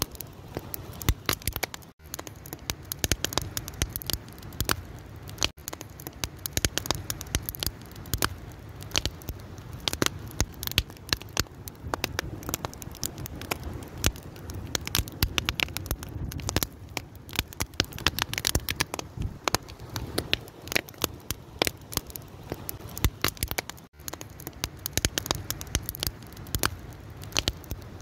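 Wood fire burning, with dense, irregular crackling and sharp pops over a low, steady rush of the flames.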